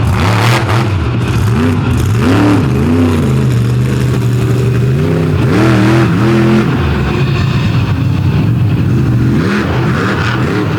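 Monster truck engine running loud and steady, revved up and back down several times in short throttle blips.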